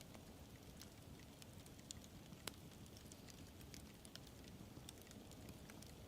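Wood campfire burning quietly: a soft, steady low rumble of flames with frequent sharp crackles and pops of burning wood, one louder pop about two and a half seconds in.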